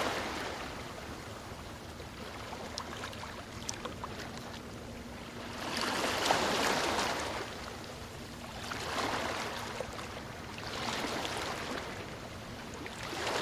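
Ocean waves washing onto the shore, the surf surging and falling away in waves: a strong surge about halfway through, two smaller ones after it, and another building at the end.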